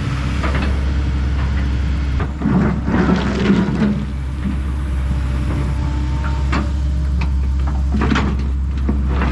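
Kobelco SK210 excavator's diesel engine running steadily. A louder stretch of clattering and scraping comes about two and a half seconds in, with single knocks later on.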